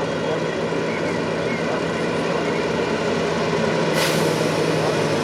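Scania 143's V8 diesel engine running steadily, with a hiss setting in about four seconds in.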